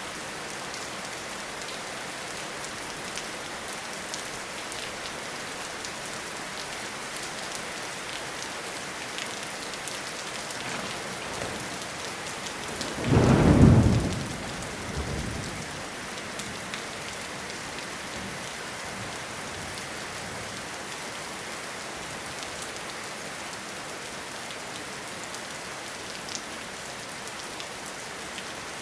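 Steady rain falling. About halfway through, one loud low clap of thunder lasts around a second, with a fainter rumble a couple of seconds later.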